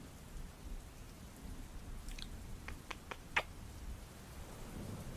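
Close-microphone ASMR kiss sounds: about five short lip clicks between two and three and a half seconds in, over a faint, steady rain-sound bed.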